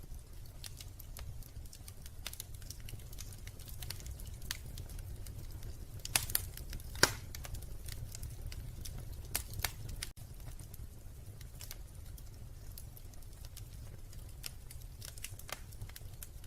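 Wood fire in a fireplace crackling, with irregular small pops and a few louder snaps in the middle, over a steady low rumble.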